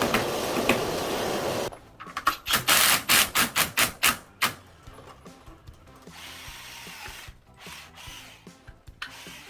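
A power tool runs steadily and cuts off about two seconds in. A quick series of sharp knocks follows, then scattered faint clicks.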